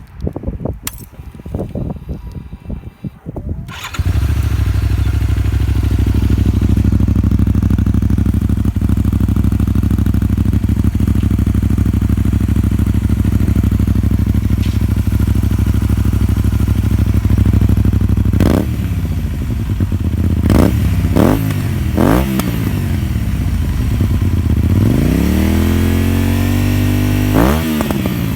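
Honda VTR250 V-twin with a Moriwaki stainless aftermarket muffler. A few clicks and knocks come first, then the engine starts about four seconds in and idles steadily. Later it is blipped several times, quick revs that rise and fall back, and near the end it is revved longer, held, then let drop back to idle.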